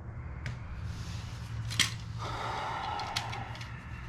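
Light clicks and handling noises from a heater control lever and its knob being worked by hand, with one sharper click about two seconds in and a short breathy rush just after, over a steady low hum.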